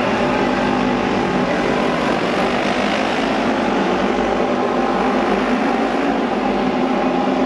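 Auto race motorcycles running around the oval track: loud, steady engine noise with no letup.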